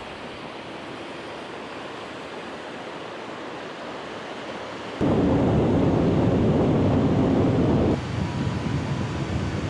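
Steady rushing noise of wind and surf. About five seconds in, a much louder low rumble of wind on the microphone starts suddenly and stops just as suddenly about three seconds later.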